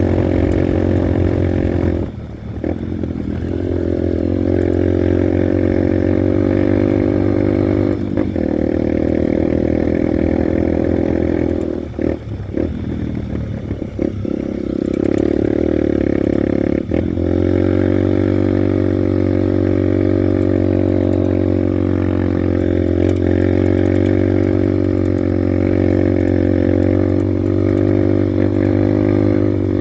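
Honda Bros 150 motorcycle's single-cylinder four-stroke engine running steadily while riding. The throttle eases off briefly about two seconds in, again for a couple of seconds around the middle, and once more a few seconds later.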